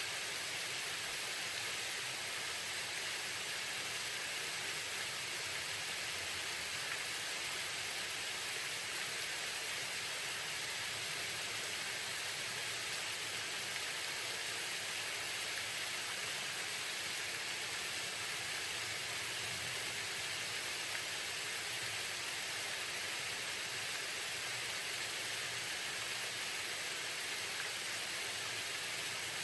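Waterfall splashing in a steady, even rush with no breaks.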